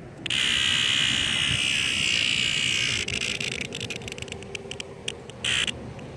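A hand-held cicada buzzing in protest at being picked up. It gives a loud, continuous rasping buzz for about three seconds, which breaks into rapid clicks that slow and thin out, then one short buzz near the end.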